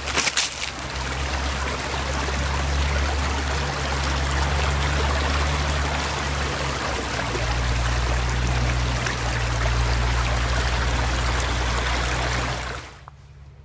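A woodland stream flowing over rocks: a steady rush of water that cuts off abruptly near the end.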